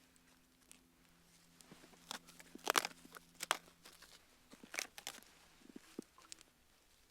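Campfire crackling, with irregular sharp pops from the burning wood, the loudest cluster a little before the middle.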